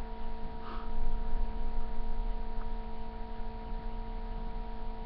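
Steady electrical hum made of several fixed tones over a low rumble, typical of a sound system or recording chain picking up mains hum in a quiet room.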